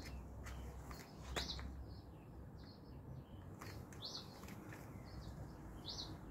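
Small birds chirping faintly in the background: short, high calls repeated every second or so, a few of them louder. A few soft clicks are mixed in.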